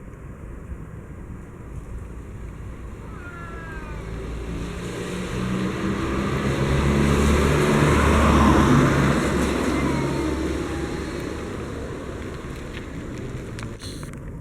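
A motor vehicle passing by, its engine sound building to a peak about eight seconds in and then fading away.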